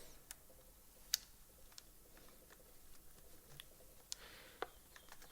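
Faint, scattered clicks and taps of small trimmer parts being handled and fitted, with a sharper click about a second in and a few more around four seconds in.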